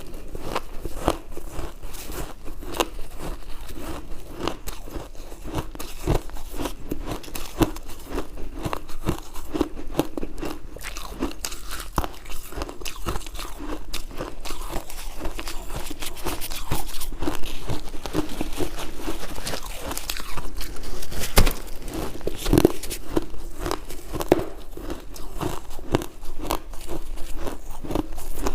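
A person biting and chewing ice: a continuous run of sharp, crisp crunches as the ice is broken between the teeth.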